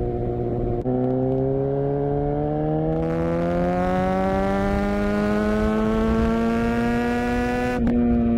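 Suzuki GSX-R750 inline-four engine and exhaust running steadily. About a second in the revs step up and keep climbing slowly and evenly for several seconds, under acceleration. Near the end there is a short click and the revs begin to ease off.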